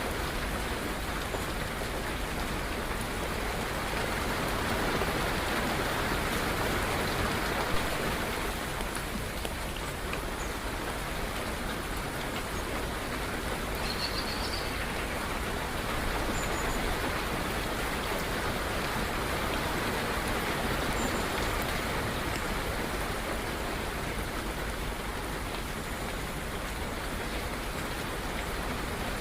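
Steady rain falling, a dense even hiss of drops, with a few faint high bird chirps about halfway through.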